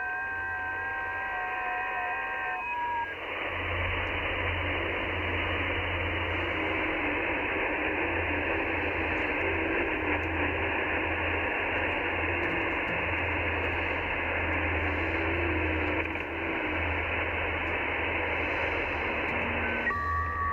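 HF receiver audio on the 40 m band: a few FT8 digital signals sounding as steady, slowly stepping tones, then about three seconds in a dense hiss of band noise takes over, with the FT8 tones returning near the end. A low mains hum runs underneath.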